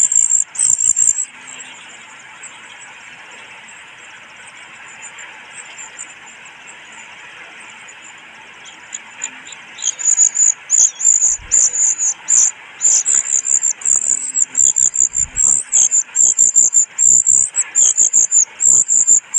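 Brood-parasite chick begging: rapid, high-pitched calls repeated in quick succession, stopping about a second in and starting again about ten seconds in. A steady, quieter hiss fills the gap between.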